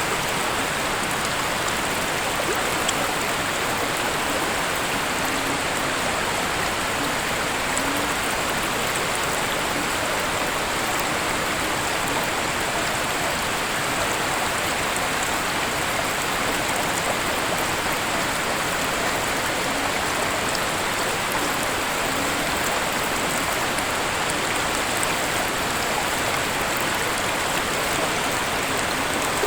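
A waterfall's falling water making a steady, unbroken rush.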